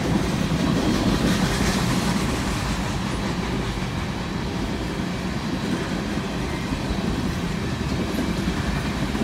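A fast-moving freight train of tank cars and covered hoppers passing a grade crossing: a steady, continuous noise of steel wheels rolling on the rails, heard from inside a car stopped at the crossing.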